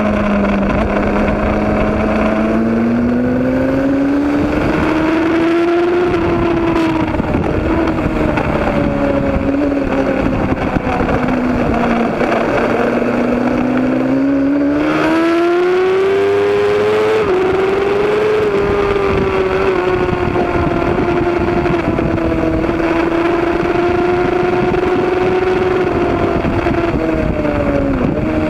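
A road-racing motorcycle engine running hard without a break, its note rising and falling slowly as the throttle is worked, with a quick step up in pitch about two-thirds of the way through.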